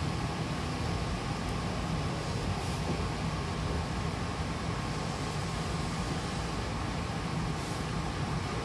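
Hankyu commuter train heard from inside the car, a steady rumble as it runs slowly alongside the station platform, with a faint steady tone in the running noise. Two brief faint hisses come about three seconds in and near the end.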